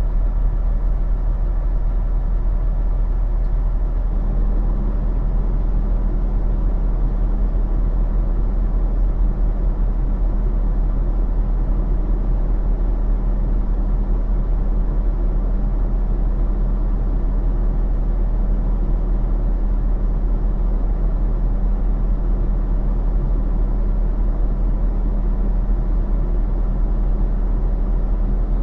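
Semi truck's diesel engine running, a steady low drone with a constant pitched hum; a second steady tone joins about four seconds in.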